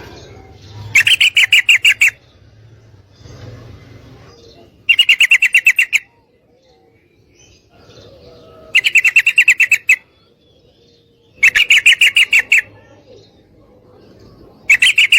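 Yellow-vented bulbul (trucukan) calls, given as the female's call to a male: five loud bursts of rapid chattering notes, each about a second long, repeated every three to four seconds, the last starting near the end.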